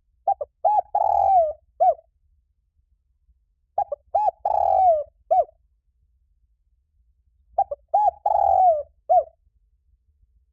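Spotted dove cooing: three song phrases about four seconds apart, each two or three short coos, then a longer rolling coo, then a final short coo.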